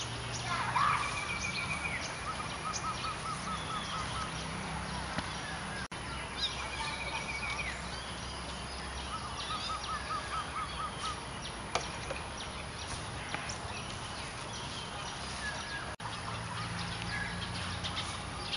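Birds singing over steady outdoor background noise: a high trill followed by a lower, rapid run of repeated notes, the phrase coming back about every six seconds.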